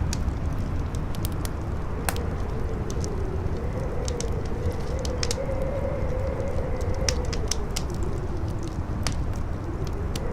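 Campfire crackling with sharp, irregular pops over a low rumble of strong wind. A howling wind tone swells slowly, peaks mid-way, falls away, and starts to rise again near the end.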